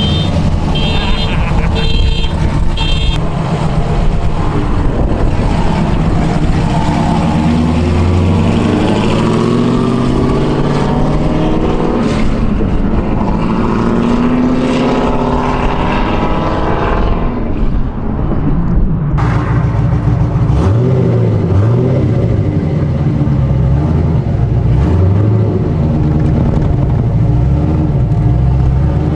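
Cammed Corvette V8 with a Stage 3 BTR camshaft, headers and X-pipe dual exhaust, revving up and down. About two-thirds of the way in it drops to a choppy, uneven idle.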